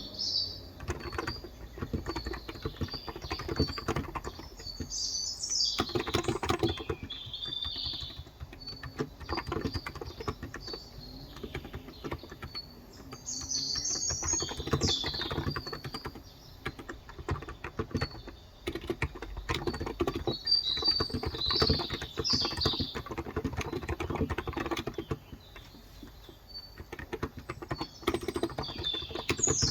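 Typing on a Cox Endeavor electro-capacitive (contactless) tenkeyless keyboard with 35 g switches, a steady patter of keystrokes in stretches with brief lulls. Birds chirp now and then above it.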